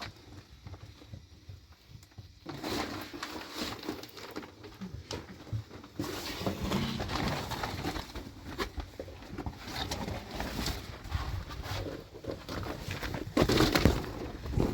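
A pigeon cooing over scattered knocks and rustling, with a louder cluster of knocks near the end.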